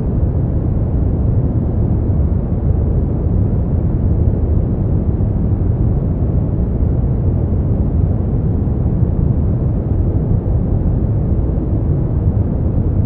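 Steady brown noise: a deep, even rumbling hiss, strongest in the low end and fading out in the highs, with no pitch and no changes.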